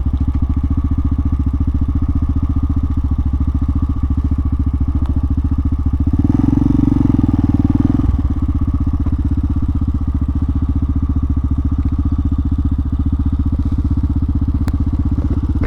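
Hawk 250 dual-sport motorcycle's single-cylinder engine idling steadily at a stop, with a louder stretch of about two seconds starting about six seconds in.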